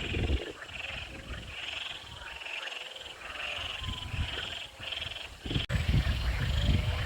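Frogs calling in a steady series of short, high-pitched pulses about once a second, over a low rumble of wind on the microphone that grows stronger after a sharp click near the end.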